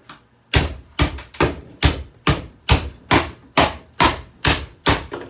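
About eleven steady, evenly spaced blows, a little over two a second, hammering on a Hoover vacuum cleaner's plastic body to break a part loose.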